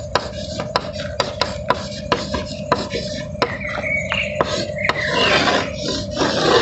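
Someone writing on a board: irregular sharp taps and short scratching strokes. A longer, louder scraping run comes near the end.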